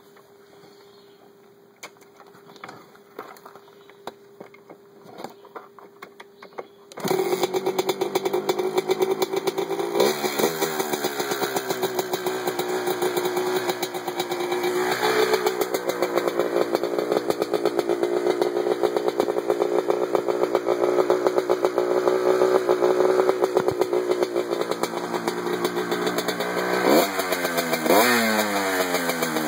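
2001 Kawasaki KX125 single-cylinder two-stroke dirt bike engine kick-started: after a few faint clicks it fires abruptly about seven seconds in and keeps running, blipped up in revs a few times.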